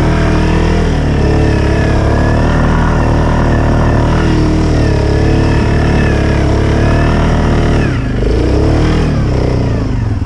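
ATV engine running under changing throttle, its pitch rising and falling. It eases off about eight seconds in and then revs up again.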